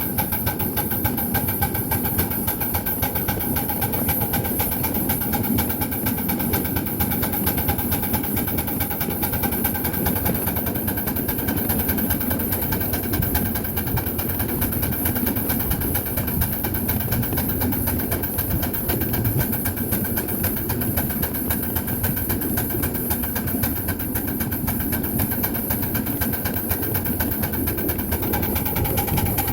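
A 1/8-scale Allen 10-wheeler live steam locomotive running steadily, with a dense rapid ticking and a few steady tones throughout.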